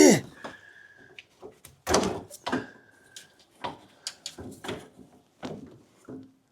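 Irregular knocks and clatters with a couple of short squeaks: old, brittle vacuum lines and fittings of a 1978 Corvette's vacuum headlight system being yanked and pulled out by hand. A loud sound falling in pitch comes right at the start.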